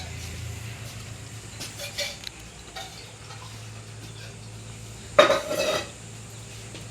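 Metal dishes and utensils clinking a few times, with a louder clatter about five seconds in, over a steady low hum.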